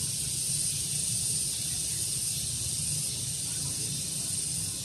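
Steady outdoor daytime ambience: an even high-pitched hiss with a low rumble underneath.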